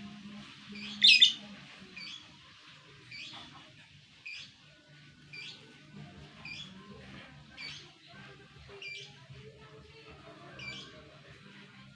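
A labe bird calling while it is being fed: short chirps repeated about once a second, with one much louder squawk about a second in.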